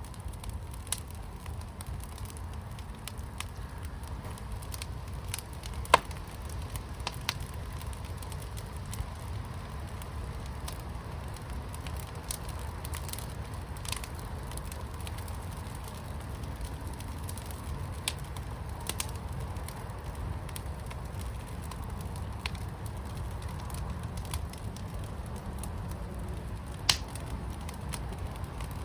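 Wood fire burning in a firepit, crackling with scattered sharp pops over a steady low rumble; two pops, about 6 seconds in and near the end, stand out loudest.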